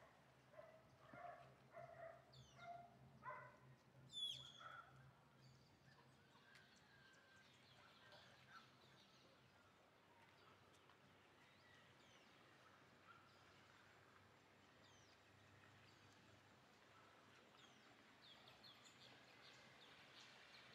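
Very faint outdoor background with short bird chirps, most of them in the first few seconds and a few more near the end, over a steady low hum.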